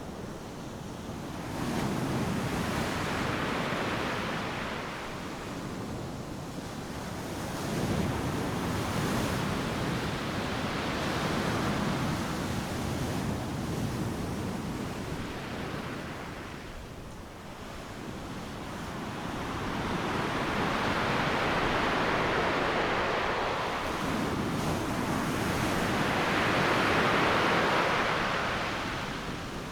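Ocean surf breaking on a beach: a steady wash of noise that swells with each breaking wave and ebbs between them, the largest surge building from about two-thirds of the way in and falling away near the end.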